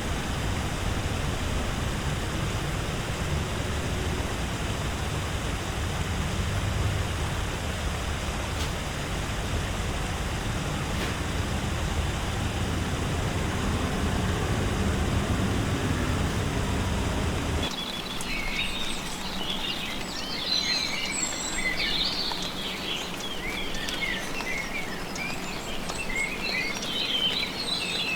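Rainforest ambience: a steady rushing noise with a strong low end, which cuts off suddenly about two-thirds of the way in to a busy chorus of high, quick bird chirps.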